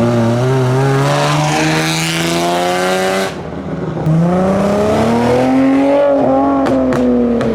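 Modified car accelerating hard, its engine note climbing through the revs. About three seconds in there is a brief drop as it changes gear, then it pulls hard again and the pitch falls away near the end.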